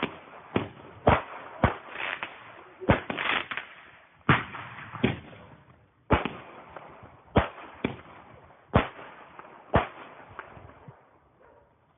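16-shot firework battery firing its shots one after another: about a dozen sharp bangs at uneven intervals, some with a short crackling tail, ending about ten seconds in.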